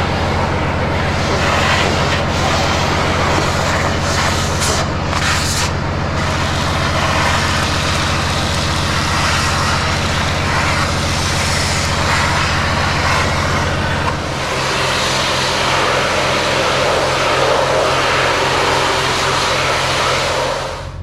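Kenworth C500 bed truck's Cummins diesel running steadily under way, with road and drivetrain noise. The engine note shifts, with a brief dip in level, about two-thirds of the way through.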